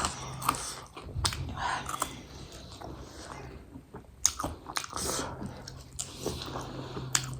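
Close-up chewing and biting of food, with sharp clicks now and then.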